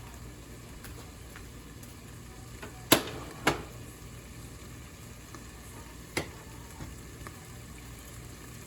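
Sliced onions sizzling in a frying pan as they cook down, with a few sharp knocks over it: two about three seconds in and one about six seconds in.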